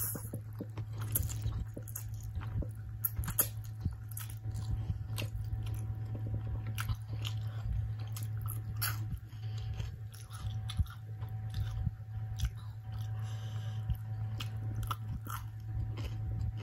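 Close-miked eating: biting and chewing mouthfuls of spicy instant noodles and small fried chicken pieces, with many short wet mouth clicks. A steady low hum runs underneath.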